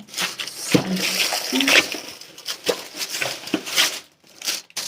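Plastic packaging crinkling and rustling as a parcel is handled and opened, with irregular crackles and a few sharp clicks, pausing briefly near the end.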